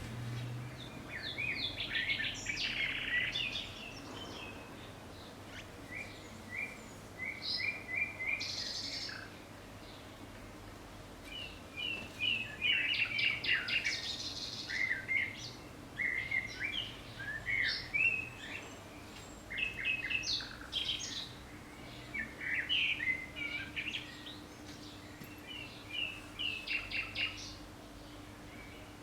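Birds singing, with repeated bursts of chirping and twittering phrases throughout, over a faint steady hum.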